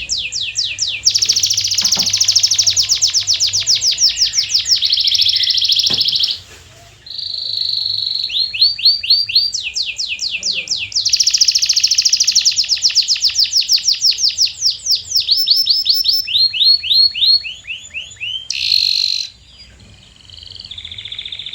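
Domestic canary singing: long trills of fast, identical high-pitched notes repeated in quick succession, one phrase running into the next. The song breaks off briefly about six seconds in and again near the end.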